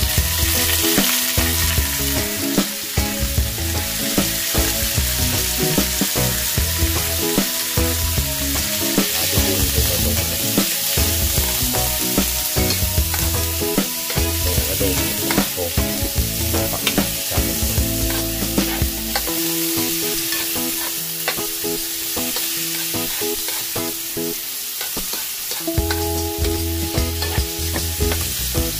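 Chicken pieces sizzling as they fry in a hot pan, with a steady hiss of hot oil. Frequent sharp clicks and scrapes come from a utensil striking the pan as the chicken is stirred.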